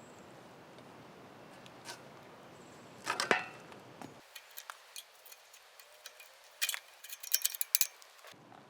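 Faint scattered clicks and ticks over quiet background hiss, with a cluster of louder ticks about three seconds in and a quicker run of them near the end.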